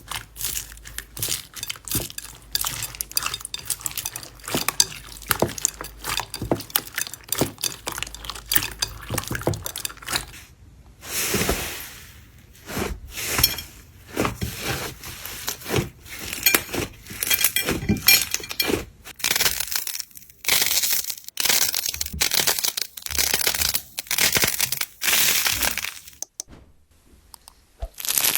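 Slime being squeezed and pressed by hand, with dense crackling and clicking pops and some longer squishing stretches.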